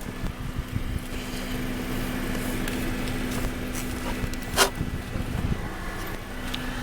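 A steady mechanical hum, like a motor running, with one sharp click about two-thirds of the way through.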